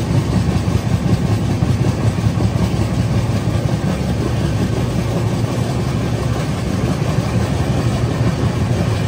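Passenger train running along the line: a steady, loud rumble of the coach's wheels on the track.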